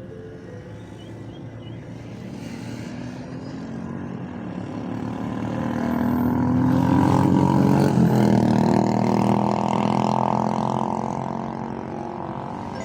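An engine passing by: it grows louder over several seconds, peaks with its pitch falling, then fades away.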